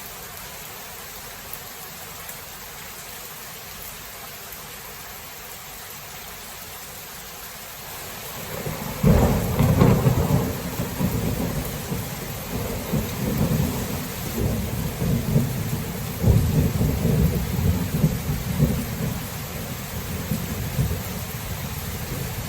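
Steady rain hiss, then about nine seconds in a thunderclap breaks into a long, loud rolling rumble of thunder that swells and eases several times over the rain.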